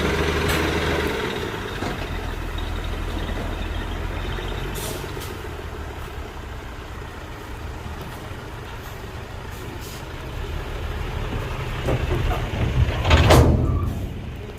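Heavy diesel engine running steadily, easing off in the middle and building again, with a short loud burst of noise about a second before the end.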